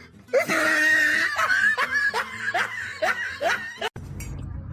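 A person laughing in a quick run of short bursts, about three a second. It breaks off suddenly near the end and gives way to a low, steady background noise.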